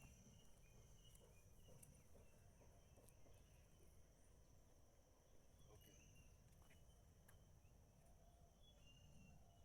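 Near silence: a faint, steady high-pitched insect drone, with a few faint short chirps.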